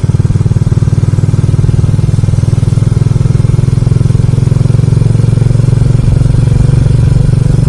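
Motorcycle engine running steadily at highway cruising speed, with wind noise on the rider's microphone.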